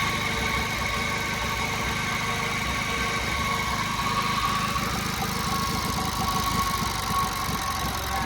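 A 1956 JAP model 55 8 hp TVO stationary engine running steadily at about 1500 rpm, with an even beat. It is driving a 5 kW ex-army generator that is putting out about 231 volts, and a steady high whine sits above the engine sound.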